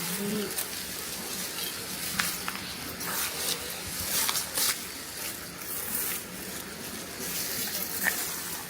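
Dry rice stalks rustling and crackling as they are handled and cut by hand: an irregular run of crisp swishes and snaps over a steady hiss.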